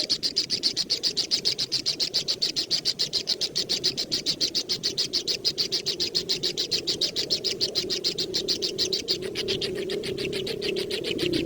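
A young bird calling in a fast, unbroken run of short high notes, about nine a second, like a nestling begging; the notes blur together near the end.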